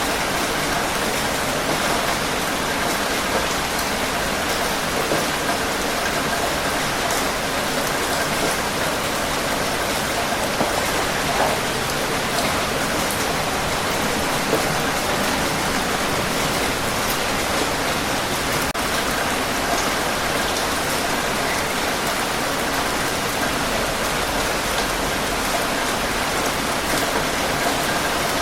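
Steady heavy rain falling, a dense even hiss with scattered drop patter.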